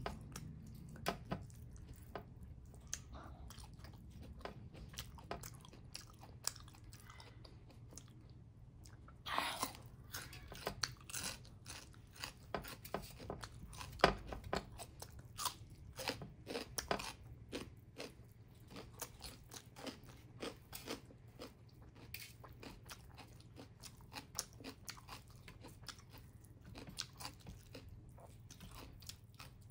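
Close-up chewing and crunching mouth sounds of a person eating a meal of finger-millet dhido and mustard greens by hand, with irregular sharp smacks and clicks. The loudest click comes about fourteen seconds in.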